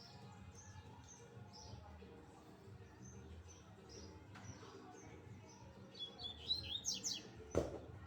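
A double-collared seedeater (coleiro) calling with faint, short high chirps, then a louder quick run of song notes about six to seven seconds in. There is a sharp knock near the end.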